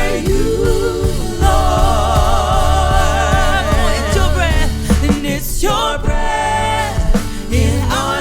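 Worship band playing live: long sung notes held with vibrato over bass, keys and drums, with short breaks between phrases.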